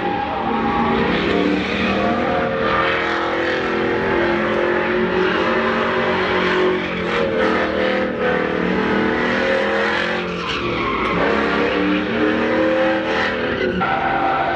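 Truck engine revving loudly, its pitch rising and falling again and again.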